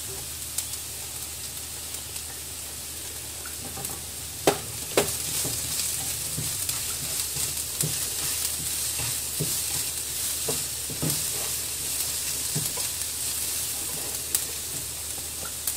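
Chopped onion, green chillies and garlic sizzling in hot oil in a frying pan. From about four and a half seconds in, a spatula stirs and scrapes against the pan, with a few sharper knocks among the sizzle.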